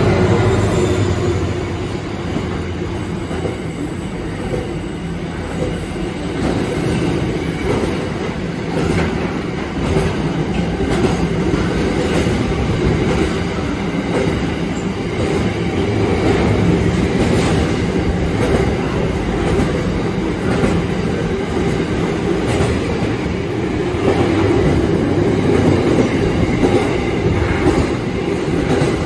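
Electric suburban passenger train running past on the rails, a steady rumble with repeated wheel clicks over rail joints. A high whine falls in pitch at the very start.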